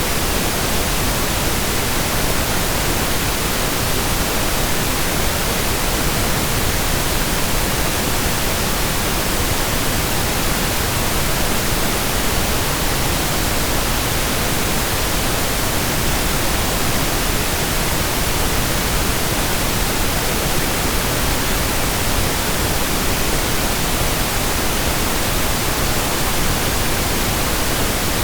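Steady pink noise: an even, unchanging hiss spread across all pitches, a softer balance than white noise.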